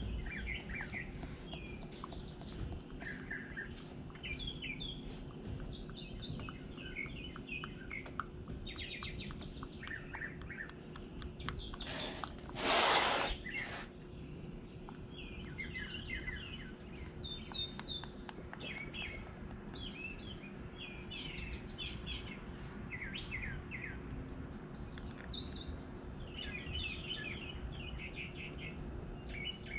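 Small birds chirping and calling on and off throughout, over a faint steady hum. About thirteen seconds in there is a brief, louder rush of noise lasting a second or so.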